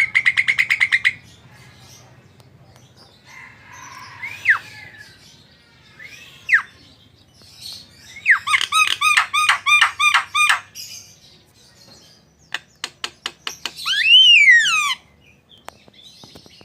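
Javan myna (jalak kebo) calling in its varied song. It opens with a fast run of repeated notes, then gives single down-slurred whistles and a run of harsh, rasping notes about six a second. Near the end come a few sharp clicks and a loud falling call, the loudest part.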